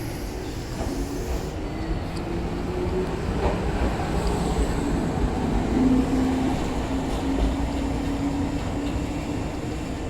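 Chichibu Railway 6000 series electric train pulling out and running, with a steady low hum and rumble and a few clicks from the wheels.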